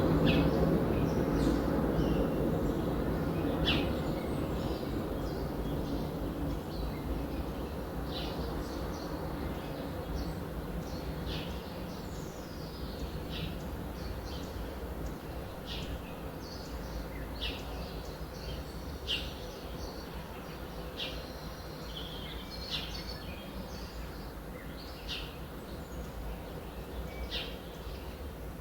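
Birds chirping: short, high calls repeated every second or two, over a low steady background noise that fades over the first ten seconds.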